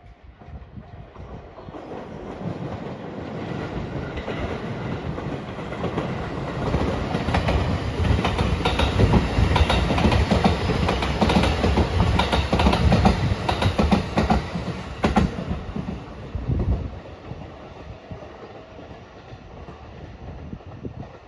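A JR West 227 series electric commuter train passing close by, its wheels clacking rhythmically over the rail joints. The sound builds over several seconds, is loudest as the cars go by, and falls away about sixteen seconds in.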